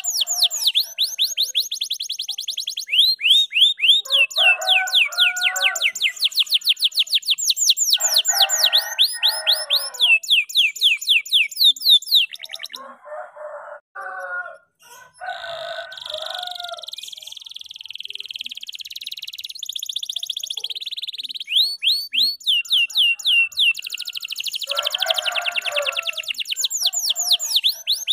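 Canary singing a long, continuous song: fast trills of rapidly repeated falling notes mixed with lower warbled phrases. There is a short break about halfway, then a drawn-out buzzy passage, and the fast trills return near the end.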